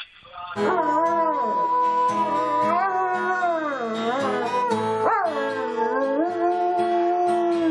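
A dog howling along with music, its long, wavering howls bending up and down in pitch over steady instrument notes.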